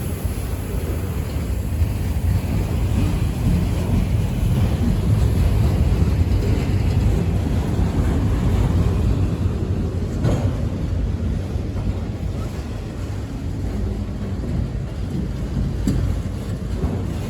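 Freight train rumbling steadily past, swelling a little midway, with wind buffeting the microphone.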